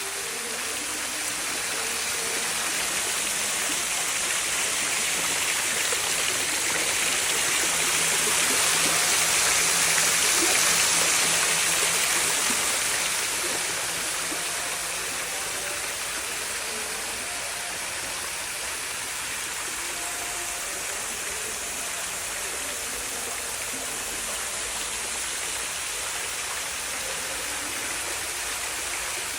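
Water from a fountain running and splashing steadily. It grows louder for a few seconds, then settles back to an even level.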